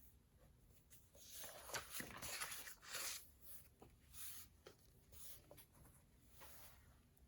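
Writing on paper with a pen or pencil: a louder stretch of scratching for about two seconds starting a second in, then a few short strokes.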